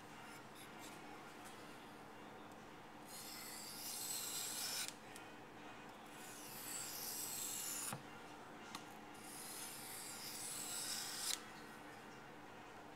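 A steel knife blade being stroked across a wet waterstone, giving a hissing, rasping scrape. It comes in three runs of about two seconds each, and each run cuts off abruptly.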